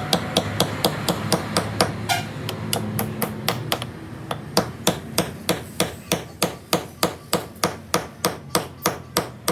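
Rapid, evenly paced hammer blows on steel, about four a second, slowing a little in the second half, with a low steady hum underneath during the first few seconds.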